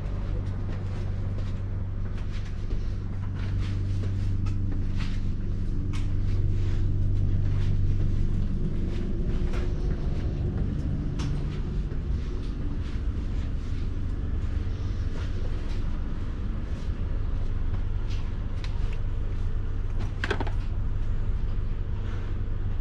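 Cabin noise of a moving ÖBB Railjet passenger train: a steady low rumble with a hum, with scattered light clicks and creaks and one sharper click near the end.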